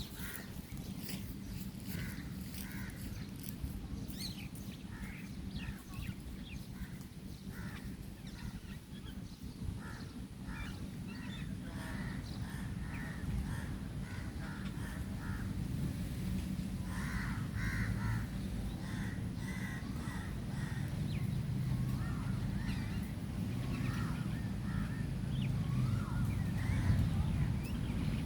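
Birds calling and chirping, with several runs of short, quickly repeated calls, over a steady low hum.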